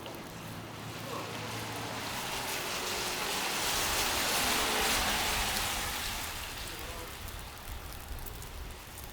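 A car passing on a snowy street, its tyre hiss swelling to a peak about halfway through and then fading away.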